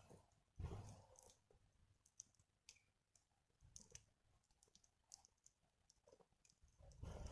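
A wood fire crackling faintly, with sparse small pops and ticks. There is a soft low thump about half a second in.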